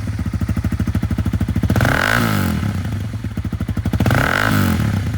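Honda CBR250R's single-cylinder engine running through an aftermarket Two Brothers exhaust, idling with two blips of the throttle, about two seconds in and again about four seconds in.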